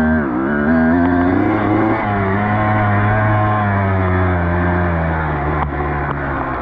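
Dirt bike engine pulling steadily along a trail. Its pitch rises a little, then eases off gradually over the last few seconds.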